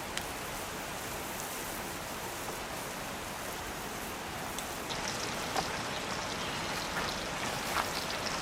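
Steady rushing of a clear forest stream flowing close by, with a scatter of small clicks and taps in the second half.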